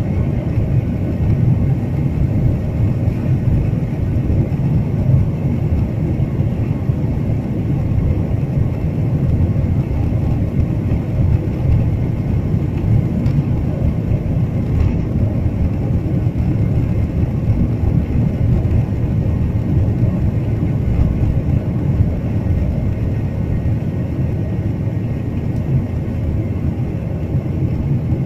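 Steady low rumble of an airliner's engines and airflow, heard from inside the passenger cabin during takeoff.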